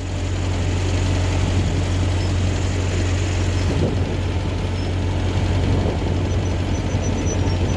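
Ford 8N tractor's four-cylinder engine running steadily as it putts along, heard from the driver's seat.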